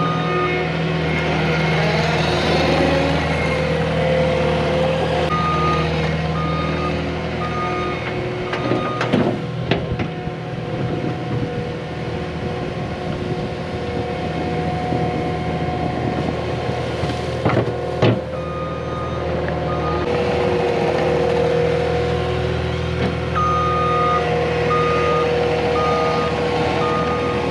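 Cat 259D compact track loader's diesel engine running steadily while it grades dirt, its backup alarm beeping in spells as it reverses. Sharp knocks come about nine seconds in and again around seventeen to eighteen seconds.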